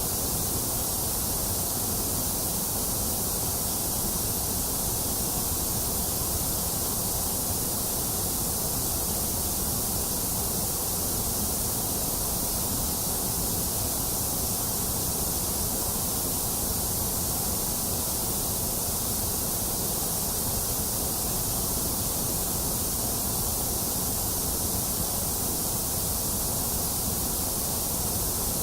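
Steady, unchanging white noise for soothing a baby: an even bright hiss over a softer low rush, with no change in level or texture.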